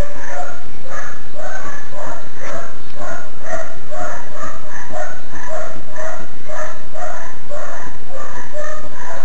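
A loud run of short, repeated animal-like calls, about two or three a second, with the same pattern repeating evenly.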